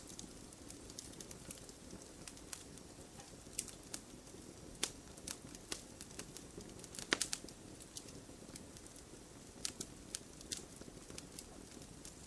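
Wood fire burning with irregular sharp crackles and pops over a low steady hiss of the flames, the loudest pop about seven seconds in.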